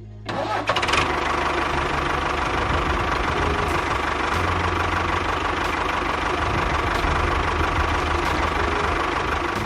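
A motor running steadily with a rattling, mechanical noise and a constant whine, starting about half a second in and fading out at the end.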